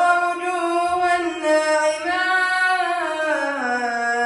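A solo nasheed singer's voice holding long drawn-out notes in a melismatic line, stepping up in pitch about two seconds in and back down near the end.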